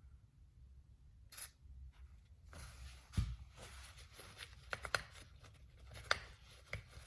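A brief spray of WD-40 about a second in, then faint clicks, ticks and rubbing of small metal clipper parts being handled on the Andis Master.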